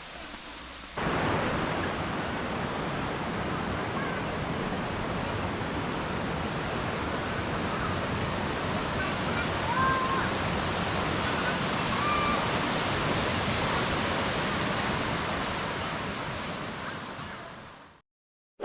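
Waterfall rushing: a steady, dense noise of falling water that starts abruptly about a second in and fades out near the end. A few faint, short high chirps sound over it.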